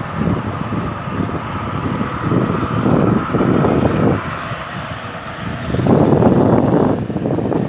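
Claas Jaguar 870 self-propelled forage harvester running at work, a loud steady machine noise that swells twice, about three seconds in and again about six seconds in.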